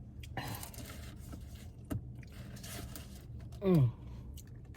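Eating sounds at a table: a rustle about half a second in and a click near two seconds, then a short hummed 'mm' from the eater that falls in pitch.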